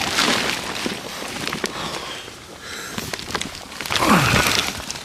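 Plastic greenhouse cover and frost cover rustling and crinkling as they are handled and pulled back, with scattered crackles and clicks.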